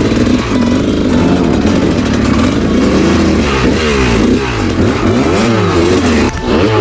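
Motorcycle engine revving up and down over and over as the throttle is worked on a rough trail.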